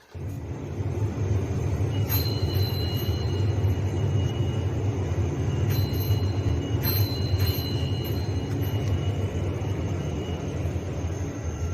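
Steady low rumble of a vehicle in motion, with faint high whines coming and going.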